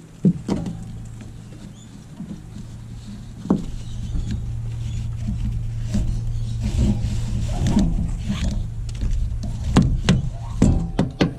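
An engine running steadily at a low hum, growing louder about four seconds in, with scattered knocks and clatter over it that come thicker near the end.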